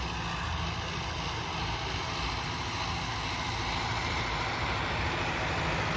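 Modified tractor's engine running steadily with a low, even hum, getting a little louder toward the end.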